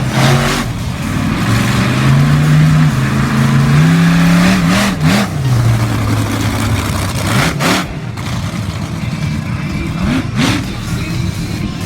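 Monster truck engine revving hard, its pitch climbing and dropping back several times, with brief sharp bursts of noise about five, seven and a half and ten seconds in.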